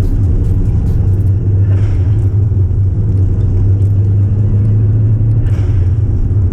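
Subaru Impreza WRX flat-four engine and road noise while driving at a steady pace, a constant low drone. Two brief hissing swells come about two seconds in and near the end.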